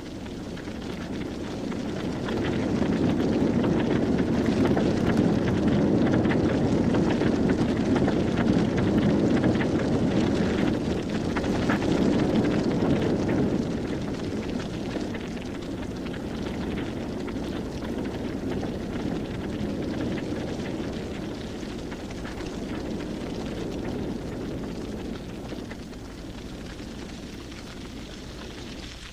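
Grass fire burning: a dense roar of flames full of fine crackling. It swells over the first few seconds, stays loudest for about ten seconds, then eases to a lower steady level.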